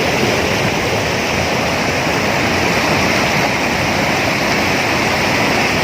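Reservoir overflow water pouring down a spillway into a creek as a waterfall, a loud steady rush.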